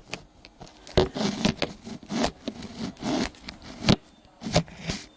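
Handling noise from a camera being repositioned: irregular scraping and rubbing against a hard surface, with several sharp knocks.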